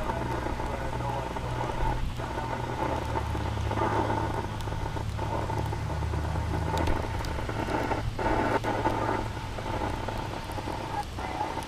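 Steady rain falling during a thunderstorm, with a low rumble under it for the first half or so that then eases off.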